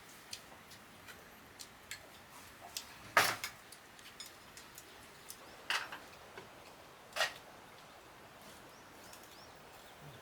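Chopsticks and bowls clicking as people eat: scattered light taps, with three louder clacks about three, six and seven seconds in.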